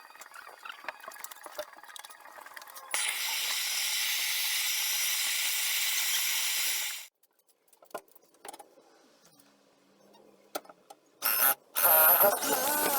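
A loud, steady hiss lasting about four seconds that cuts off abruptly, followed by a few faint knocks and then music near the end.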